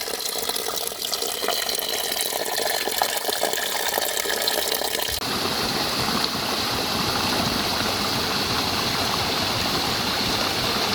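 Water running and gushing steadily. About five seconds in it cuts abruptly to a fuller, more even rush.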